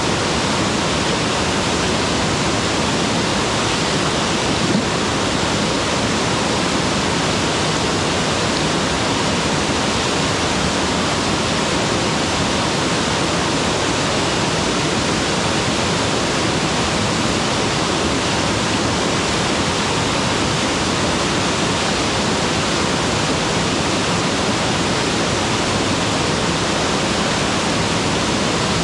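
Mountain waterfall pouring steadily, a constant even rush of falling water spread across low and high pitches alike.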